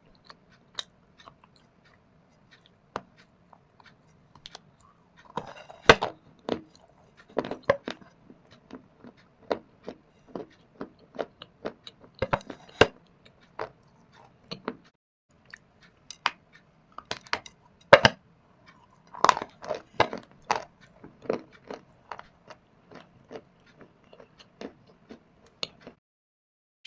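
Dry shale and baked clay being bitten and chewed close to the microphone: sharp, irregular crunches and cracks with quieter crackling between, coming in louder clusters every few seconds.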